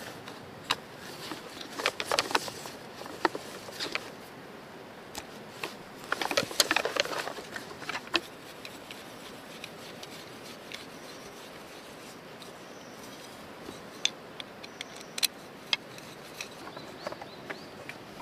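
Scattered clicks, taps and rustling of small objects being handled, with two busier bursts of rustling, over a faint steady outdoor hiss.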